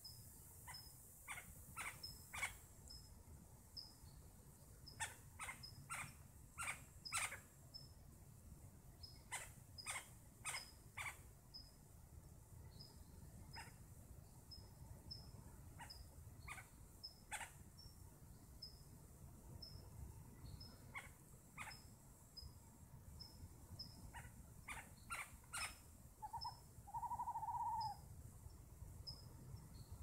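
A bird giving sharp, clipped call notes in irregular bursts, over a faint high insect chirp repeating evenly about one and a half times a second. Near the end comes a brief wavering call, the loudest sound.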